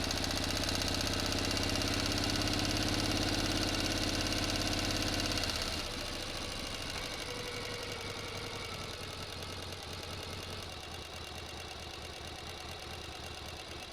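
Engine running steadily with an even, rapid beat. About six seconds in it drops suddenly in level and its deep drone thins out, and it runs on more quietly.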